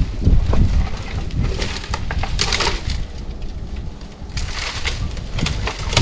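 Brush and twigs crackling and snapping in a few separate bursts, over a low wind rumble on the microphone.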